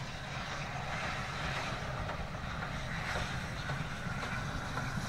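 Coaches of a steam-hauled passenger train rolling past, a steady rumble of wheels on the rails with a few faint clicks.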